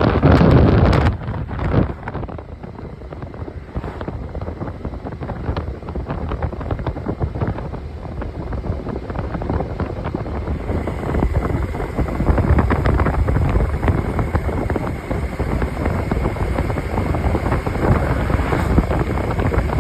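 Motorcycle running at road speed, with wind buffeting the microphone. There are heavy gusts in the first couple of seconds, then a steady rush of wind and engine rumble.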